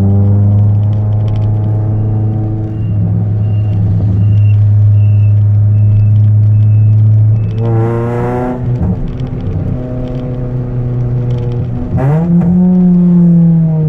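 Chevrolet Celta 1.0 four-cylinder engine with a 4-into-1 header and an open two-inch exhaust with no mufflers, idling steadily. The throttle is blipped twice: a short rev about eight seconds in and a sharper one near twelve seconds, each dropping back to idle.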